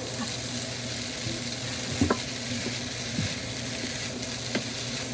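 Chopped bopis (diced offal and carrots) sizzling steadily in a frying pan as it is stirred with a wooden spatula, with a few light knocks of the spatula against the pan.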